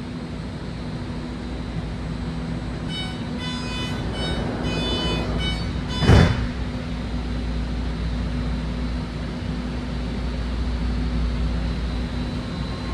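Inside a BART train car: a steady low hum from the car's equipment, a series of electronic chime tones about three seconds in warning that the doors are closing, then the doors shutting with one loud thud about six seconds in.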